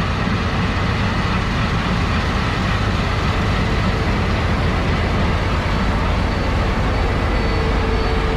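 Heavy farm machinery's diesel engine running steadily at working speed, a low-heavy drone with a faint steady whine above it.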